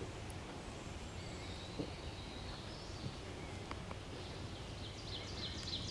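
Quiet spring woodland: a steady low background hiss with songbirds singing faintly, and a quick run of high descending notes from a songbird near the end.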